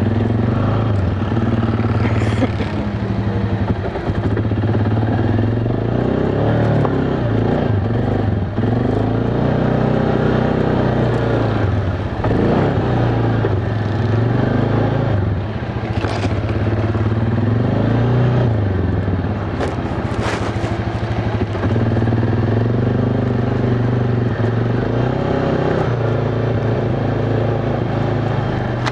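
ATV engine running under way, heard from on board, its revs rising and falling again and again as it is throttled along a trail, with a few sharp knocks and clatters over the bumps.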